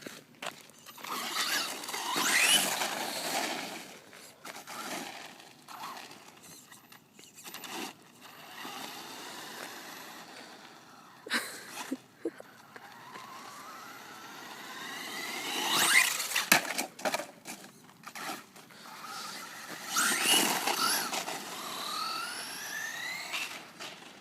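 Electric RC car motor whining, rising in pitch as the car accelerates, in three runs, with a couple of sharp knocks a little before halfway.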